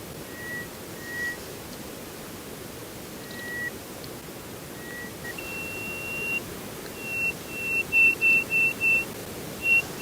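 A bird's whistled call over a hissy background: a few spaced pure notes, then a longer higher note and a quickening run of short higher notes that grow louder toward the end.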